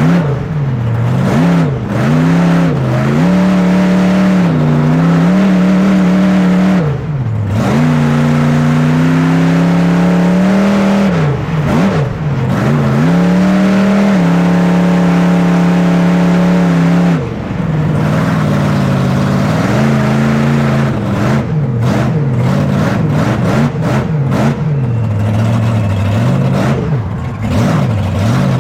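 Monster truck engine revving hard, its pitch climbing and falling again and again as the throttle is worked, held high for several seconds in the middle, with sudden drops when the throttle is lifted.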